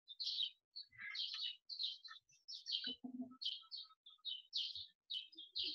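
Birds chirping in the background: many short, high chirps coming irregularly.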